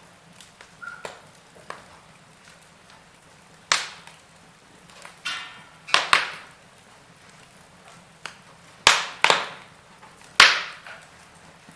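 Wood fire burning in a fireplace: irregular sharp pops and crackles from the burning logs, about a dozen in all with the loudest spaced a couple of seconds apart, over a faint steady hiss.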